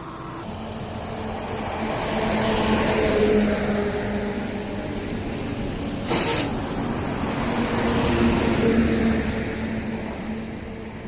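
Heavy trucks passing on a highway, engine drone and tyre noise swelling as each goes by, with two passes about five seconds apart. A short, loud burst of noise cuts in about six seconds in.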